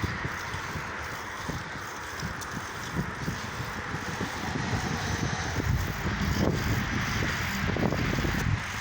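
Wind rushing over the phone's microphone during a bicycle ride, a steady hiss with low buffeting that grows stronger and gustier in the second half.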